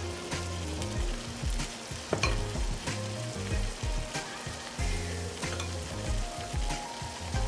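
Ground beef and pork filling sizzling in a pan while diced carrots and green peas are added, with background music carrying a steady low bass pulse underneath.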